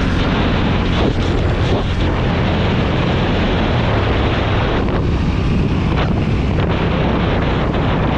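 KTM motorcycle engine running steadily while riding, under heavy wind noise on the microphone.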